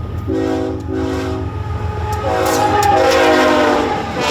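A train horn sounds over the rumble of an approaching train: two short blasts, then a longer, louder blast whose chord drops in pitch partway through.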